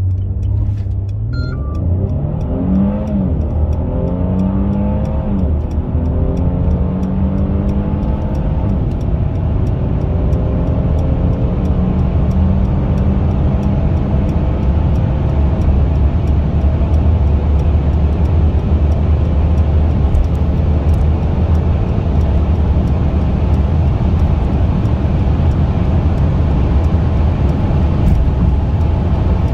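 Mercedes-Benz E450 accelerating hard, heard from inside the cabin. The engine note climbs and drops back through several quick upshifts in the first few seconds, then settles into a steady high-rev drone, with wind and road noise building as the car reaches very high speed.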